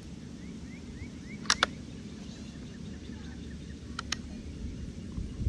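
Two pairs of sharp metallic clicks, about two and a half seconds apart, the first pair louder: the action of a 1943 J.C. Higgins single-shot .22 rifle being worked. Steady low background noise and a few faint rising chirps lie under them.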